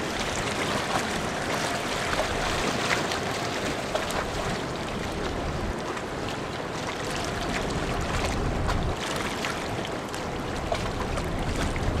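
Steady wash of wind and water noise around a large car ferry leaving port, with a faint steady hum underneath. Wind gusts rumble on the microphone about eight seconds in and again near the end.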